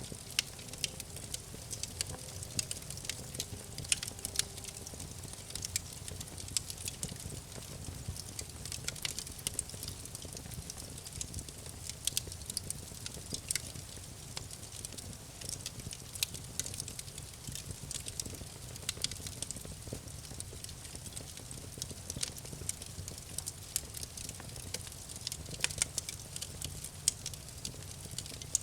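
Campfire crackling: irregular sharp pops and snaps of burning wood over a steady low rumble of flame.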